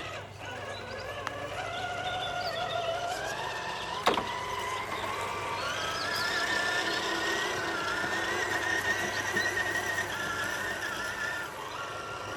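Electric motor and gear drivetrain of a 1/10 scale RC rock crawler whining under throttle, its pitch rising about three seconds in and holding higher as it crawls. A single sharp knock about four seconds in.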